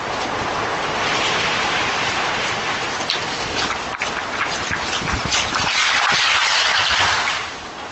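Hurricane-force wind gusts rushing and buffeting the microphone, swelling twice with scattered crackles and easing off near the end.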